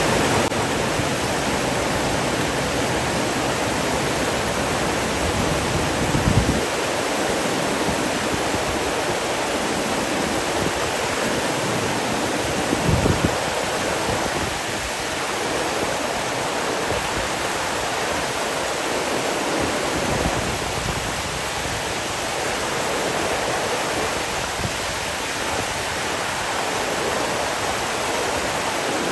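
Steady rushing of running water, a dense even hiss. A deeper rumble underneath drops away about six seconds in.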